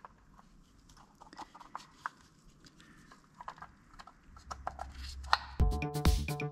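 Light, scattered clicks and taps of small engine parts being handled and oiled, then electronic music with a steady beat starts loudly near the end.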